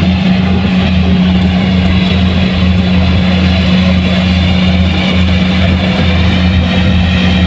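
Kubota combine harvester's diesel engine running at a steady speed: a loud, even drone with a deep hum that holds its pitch.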